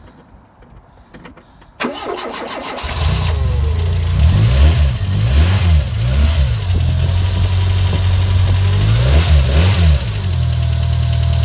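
Renault 11's petrol engine being cold-started on choke after standing for weeks: a short burst of cranking about two seconds in, the engine catches a second later, is revved up and down a few times, then settles into a steady idle near the end.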